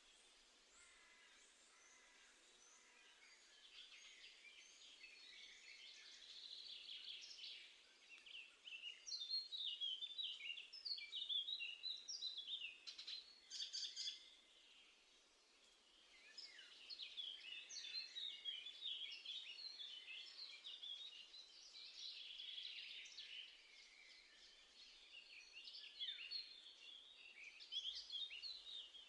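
Several small songbirds chirping and twittering in quick, overlapping high notes, busiest through the middle and the later part.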